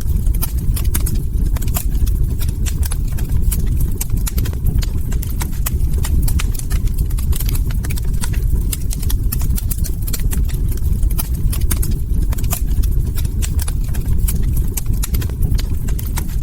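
Log fire crackling: many quick, irregular pops and snaps over a steady low rumble of burning wood.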